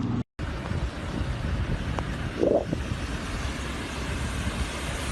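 Steady low outdoor rumble like road traffic, with wind noise on the microphone, following a brief dropout just after the start. A short mid-pitched sound stands out about two and a half seconds in.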